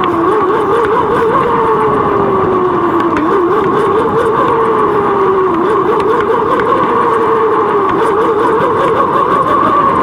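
Bicycle riding noise picked up by a GoPro on the moving bike: a loud, steady rush with a wavering hum whose pitch drifts slowly up and down with riding speed.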